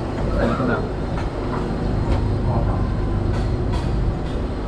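Passenger train running along the track, heard from aboard a carriage: a steady low rumble of wheels on rails, with a couple of sharp clacks about three and a half seconds in.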